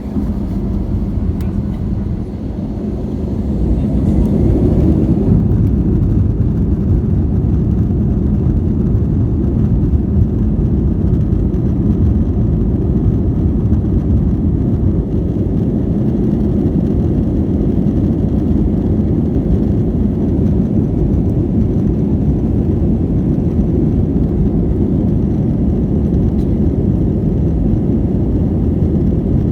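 Airplane taking off: a steady, loud, low rumble of engine and air noise that swells about four seconds in, then holds.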